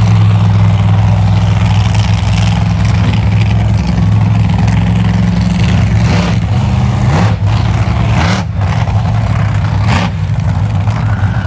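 Monster truck engine running steadily with a deep, loud drone, revved up a few times in the second half.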